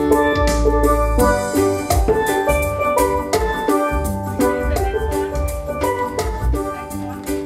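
Steel pans playing a reggae tune over a drum and bass beat, the struck notes ringing and decaying, the music getting quieter near the end.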